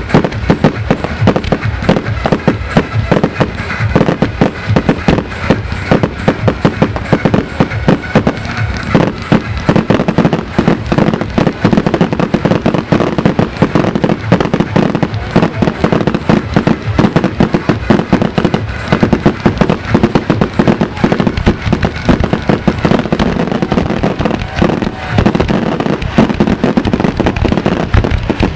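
Fireworks display heard from about 150 m away: a dense, continuous barrage of bangs, many a second, with no pauses.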